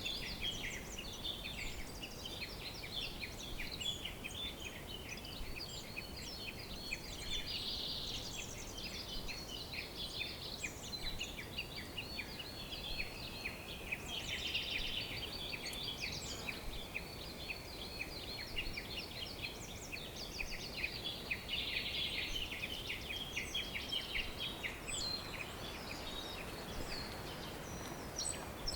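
Many small birds singing and chirping at once, a dense chorus of quick high chirps and trills over a faint steady hiss.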